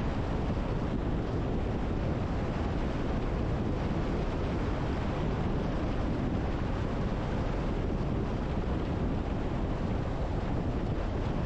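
Steady rushing road and wind noise from a car driving, with no engine note or separate sounds standing out.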